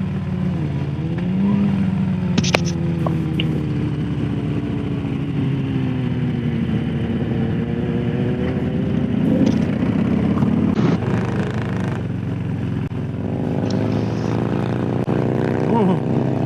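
Harley-Davidson Low Rider S's Milwaukee-Eight V-twin running under the rider while cruising. The engine note dips and picks up in the first couple of seconds, then slowly falls off as the throttle eases, and climbs again near the end.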